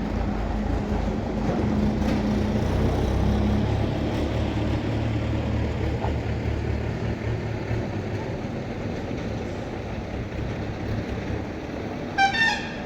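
Truck engine running, its steady hum dropping in pitch about four seconds in and fading toward the end. A short high-pitched tone sounds near the end.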